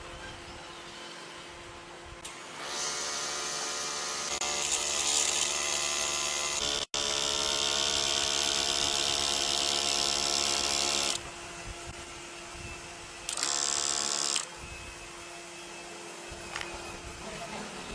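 A small electric motor, like a power tool, running in stretches with a steady whine and hiss. It starts about two seconds in, gets louder a couple of seconds later and stops suddenly near the end of the first half, then runs again briefly about a second later.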